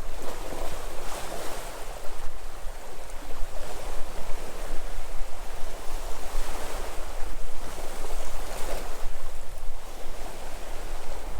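Sea waves breaking and washing on the shore, a continuous surf rising and falling every second or two, with a low rumble of wind on the microphone.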